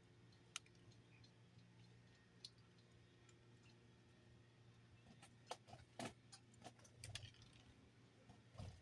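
Near silence broken by faint, scattered clicks and taps: one alone, then a cluster of several from about five to seven and a half seconds in, and one more near the end.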